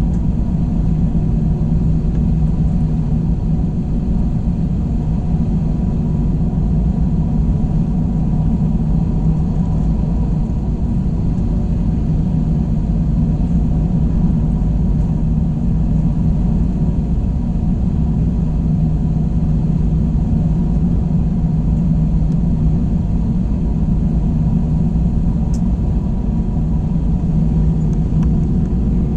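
Steady cabin noise inside an Airbus A321 airliner: a constant low rumble with a steady low hum, unchanging throughout.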